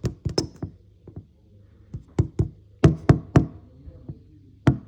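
A series of sharp knocks in irregular clusters: a few in the first half second, a quicker run about two to three and a half seconds in, and one loud knock near the end.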